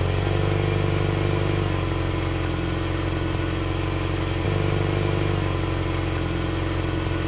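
Tractor engine sound running steadily at an even pitch.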